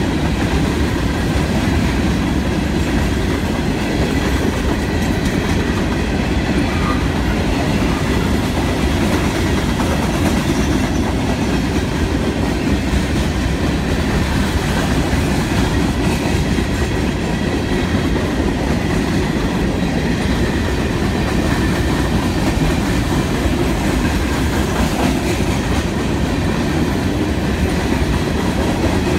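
Empty CSX coal hopper cars of a long freight train rolling past close by: a steady rumble with the clickety-clack of steel wheels on the rails.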